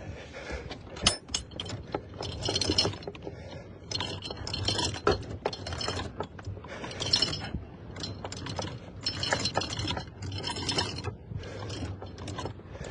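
Anchor chain rattling and clicking over the windlass and bow fitting in short, irregular spurts about once a second, as more chain is paid out while anchoring. Under it is the low, steady hum of the boat's engine ticking over.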